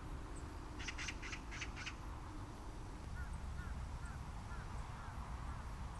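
Birds calling: a quick series of five harsh calls about a second in, then a run of short, evenly spaced chirps from about halfway on, over a steady low rumble.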